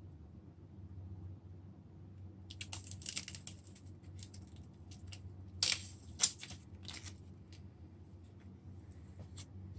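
Small clicks and short scrapes of hands handling small tools and parts: one cluster about two and a half seconds in, and a second about halfway through with a single sharp click as the loudest sound, over a steady low hum.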